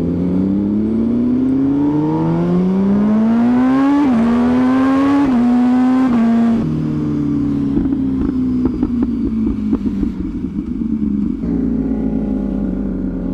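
MV Agusta Superveloce 1000's inline-four engine pulling hard, its pitch climbing through quick upshifts over the first six seconds. About six and a half seconds in the throttle rolls off and the engine runs on lower and slowly falling, with a scatter of sharp pops.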